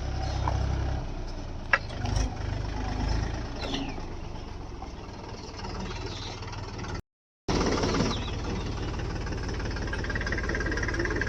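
Diesel engine running steadily at idle, with a sharp click about two seconds in. The sound cuts out for about half a second around seven seconds in.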